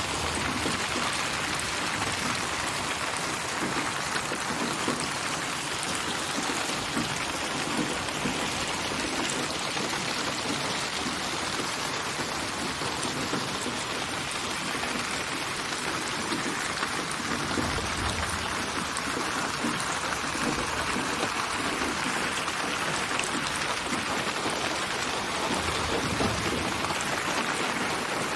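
Steady rain assembled from many rain recordings and panned around the listener in binaural 8D surround: an even, dense hiss of drops hitting surfaces. A low rumble swells briefly twice in the second half.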